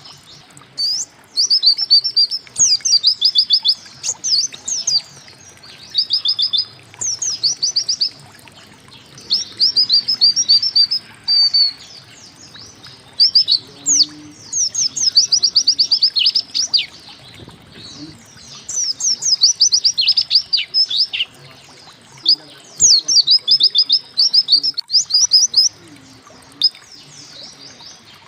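A white-eye (pleci) sings in repeated short bursts of rapid, high chirping notes, each burst lasting a second or two with brief pauses between. The song includes fast 'wit wit' phrases.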